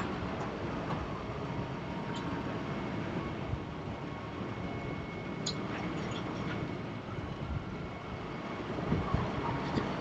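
Heavy vehicle running, a steady rumble with a few light clicks and rattles.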